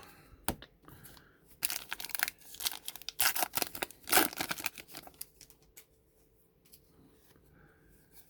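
A baseball card pack's wrapper being torn open and crinkled, in a run of crackly tearing lasting a few seconds, followed by faint handling of the cards.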